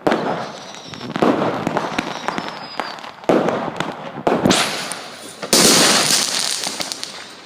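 Fireworks going off: five sudden bursts a second or so apart, each trailing away with crackling. About halfway through, the loudest burst brings a bright hissing crackle that slowly fades.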